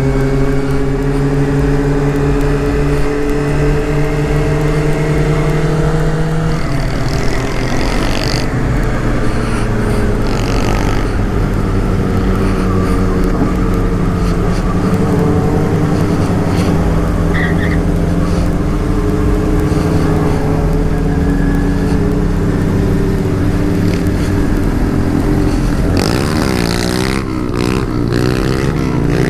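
Motorcycle engine running steadily while riding, heard from the bike with road and wind noise; the engine note drops about six seconds in, as after an upshift, and wavers near the end.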